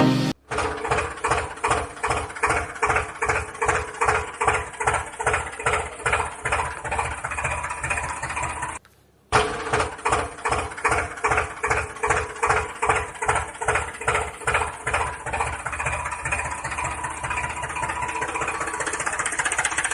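Tractor engine chugging steadily at about three beats a second. It drops out for half a second about nine seconds in, then picks up again at the same pace.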